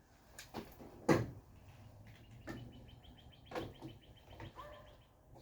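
A few separate knocks and clunks as tools and parts are handled, the loudest about a second in. A bird trills rapidly in the background near the middle.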